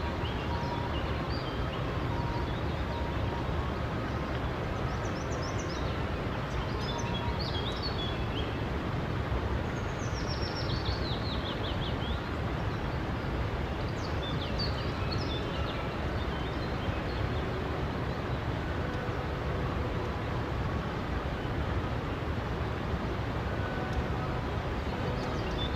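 Forest river flowing with a steady rushing sound, with songbirds chirping now and then above it; about ten seconds in, one bird gives a falling trill.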